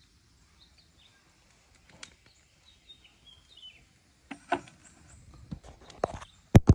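Faint bird chirps, a few short high rising and falling notes, over quiet outdoor background, with scattered light knocks and a single sharp loud click near the end.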